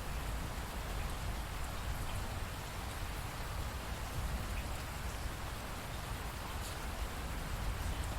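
Steady rain falling, a continuous hiss with a low rumble beneath and scattered faint drop ticks.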